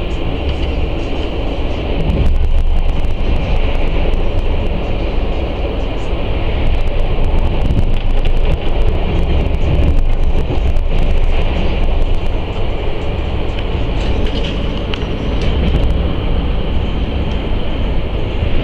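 Steady low rumble of a moving NS passenger train, heard from inside the carriage, with scattered sharp clicks.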